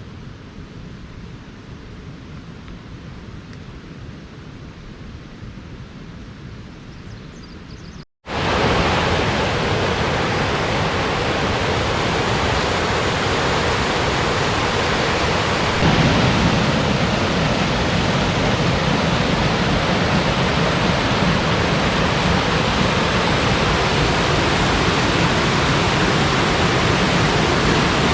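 Faint outdoor ambience, then, after a cut about eight seconds in, the loud, steady rush of a waterfall's falling water.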